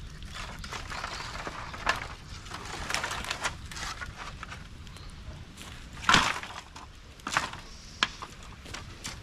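Bamboo bonfire crackling, with irregular sharp pops and cracks; the loudest comes about six seconds in.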